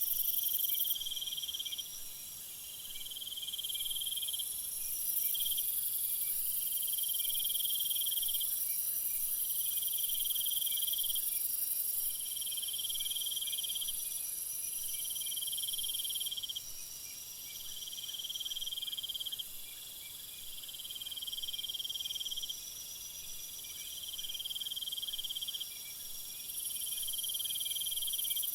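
Several insects calling at once: one trills in repeated spells of about two seconds with short breaks, while others keep up higher, steadier buzzing that drops out and returns every few seconds.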